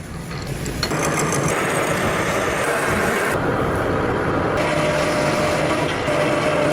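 Metal lathe running steadily while machining iron. The machining noise grows louder about a second in and holds steady, with a faint whine in the second half.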